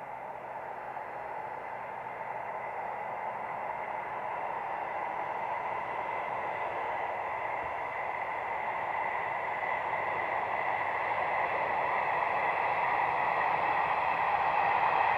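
Train approaching, a steady rushing noise with a faint whine that grows steadily louder throughout.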